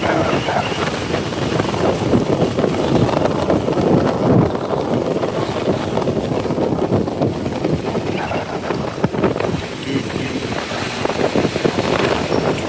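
Wind buffeting the microphone on a moving motorcycle, over the motorcycle's engine and surrounding street traffic, heard from the pillion seat.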